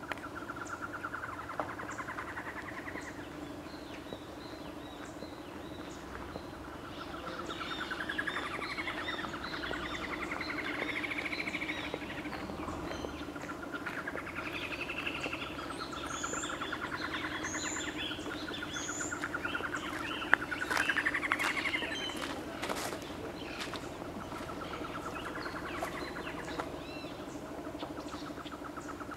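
Birds calling: repeated warbling phrases that rise and fall in pitch, with three short high chirps about two-thirds of the way through. A steady low hum runs underneath.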